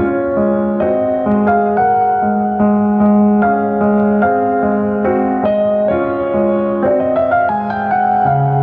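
Solo piano instrumental: a melody over held chords, with a lower bass note coming in near the end.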